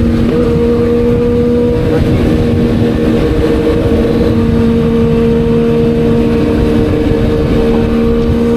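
Kawasaki Z900's inline-four engine running at steady cruising revs, its pitch holding level, under a constant rush of wind and road noise.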